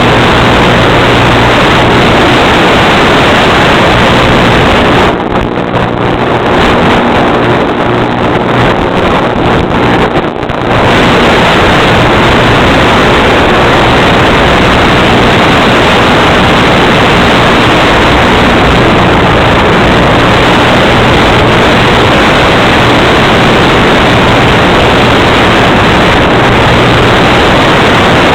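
Loud, distorted rush of wind with a steady motor hum, as recorded aboard an EPP-foam FPV model plane in flight. The rush eases and the hum shifts between about five and eleven seconds in.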